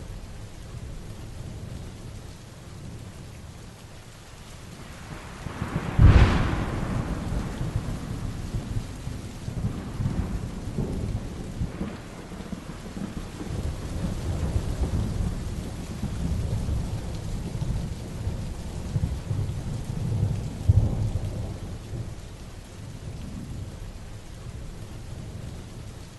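Heavy rain falling steadily, with thunder: a sharp thunderclap about six seconds in that trails off into a long rolling rumble, and another rumble of thunder near the end.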